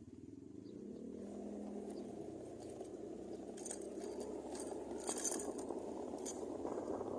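A motor engine running steadily with a fast, even pulse, with light clinking in the middle stretch.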